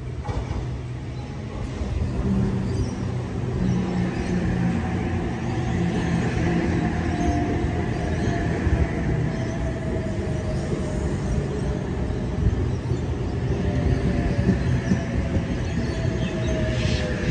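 Double-deck electric suburban train running along the platform: a steady rumble of wheels on the rails, rising about two seconds in, with a thin electric whine that falls slowly in pitch.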